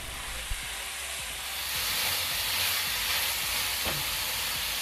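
Bitter melon slices and sauce sizzling in a hot nonstick pan as they are stir-fried: a steady hiss that grows louder about a second in.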